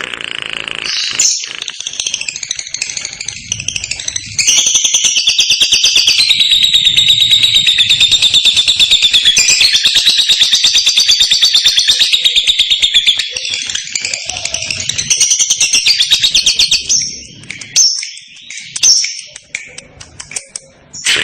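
Lovebird's 'ngekek' song: a long, rapid chattering trill of fast repeated high notes. It starts about four seconds in with scattered chirps before it, breaks briefly near the middle, resumes, and ends a few seconds before the finish, with chirps after.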